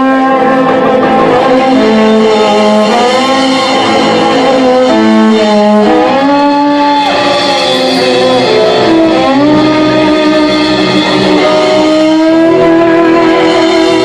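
A live band playing a fast, Romanian Gypsy-style instrumental, with a violin carrying a melody that steps and slides over guitar accompaniment.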